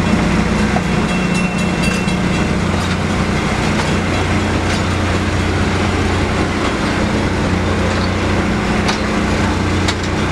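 Passenger train rolling slowly behind a diesel locomotive: a steady engine hum with scattered clicks of the wheels over rail joints.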